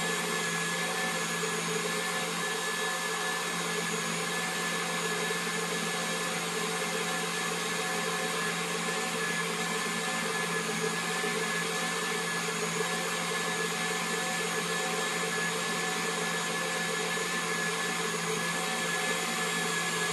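Electric kitchen mixer motor running steadily while olive oil is slowly added to egg yolks, emulsifying them into mayonnaise.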